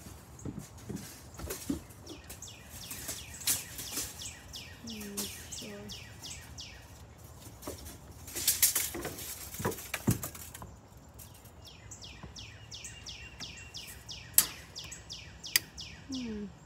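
A songbird singing a fast run of down-slurred notes, about four a second, twice: once in the first half and again near the end. In between come a few sharp knocks and rustles, the loudest sounds here.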